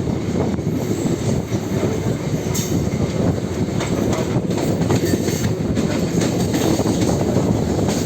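Suburban local train running along the track: a steady loud rumble, with irregular sharp clicks of the wheels passing over rail joints.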